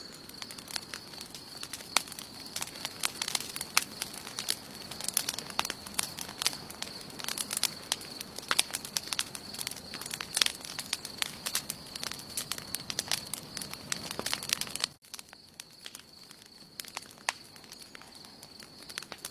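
Wood campfire burning, crackling and popping in quick irregular snaps over a soft rushing bed, with a steady high-pitched note underneath. About 15 seconds in, the sound drops abruptly and the crackling turns sparser and quieter.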